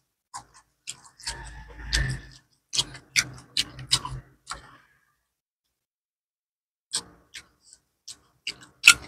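Close-up eating sounds: a person chewing a mouthful of fried gourami and rice, with wet lip smacks and sharp mouth clicks. The smacking stops for about two seconds midway, then starts again near the end.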